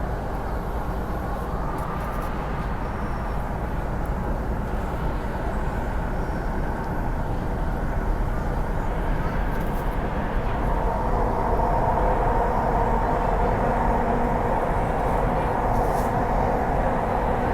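Inside a Hyundai Rotem R-train electric multiple unit on the move: steady running noise of wheels on rail with a deep rumble. A steady whine grows louder over the second half.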